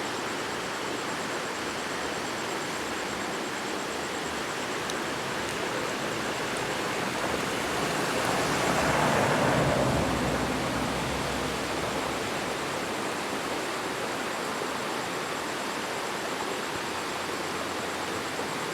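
Waterfall rushing steadily, with a swell of louder rushing about halfway through that settles back.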